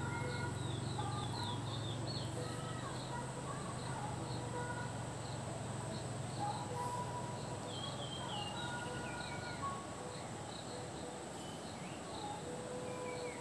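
Birds calling: short whistled notes and quick falling runs of high notes, over a low steady hum that fades out about two-thirds of the way through.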